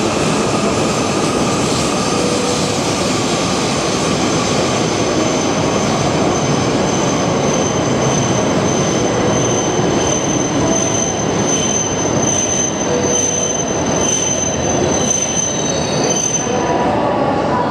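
Tohoku Shinkansen train, the coupled Hayabusa and Komachi sets, pulling in along the platform with a steady rush of running noise and a high brake squeal that dies away about seventeen seconds in as it comes to a stop.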